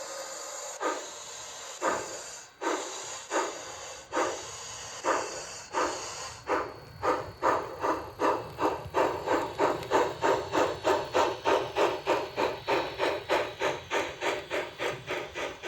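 HO-scale model steam locomotive's sound system chuffing as it pulls away. A steady steam hiss fades out over the first few seconds while the chuffs quicken from under one a second to about three a second.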